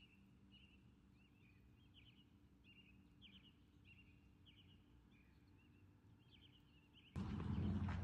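Faint bird chirps, short calls repeated over and over. About seven seconds in, a much louder outdoor noise with a low hum starts suddenly.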